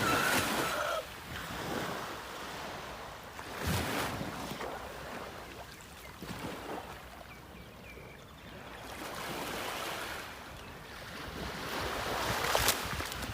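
Sea waves washing onto the shore, swelling and falling away every few seconds.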